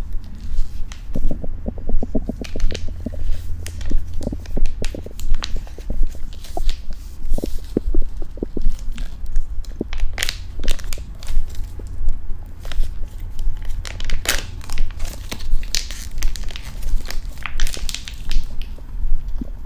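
Someone biting and chewing sweet fruit corn kernels off the cob, with wet crunching and crackling in a steady rhythm of a little over one chew a second, over a constant low hum.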